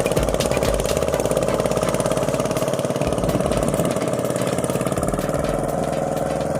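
Walking hand tractor's single-cylinder diesel engine running steadily, with a fast, even chugging beat.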